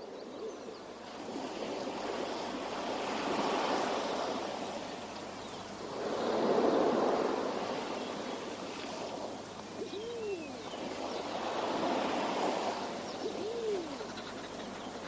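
Ocean surf washing in slow swells that rise and fall every few seconds, with two short calls that rise and fall in pitch near the end.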